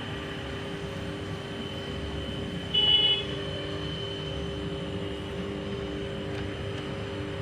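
High-pressure washer running steadily with a motor hum, spraying water onto an air conditioner's condenser coil. About three seconds in, a brief high-pitched tone sounds over it for about half a second.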